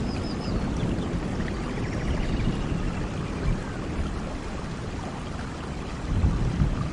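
Steady rain with the low rumble of thunder, which swells briefly near the end.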